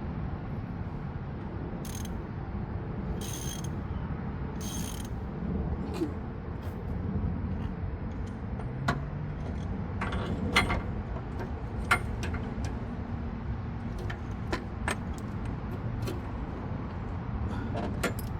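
Socket ratchet working a radiator fan temperature sensor tight: a few short bursts of ratcheting, then scattered sharp metallic clicks of the pawl and socket, over a steady low rumble.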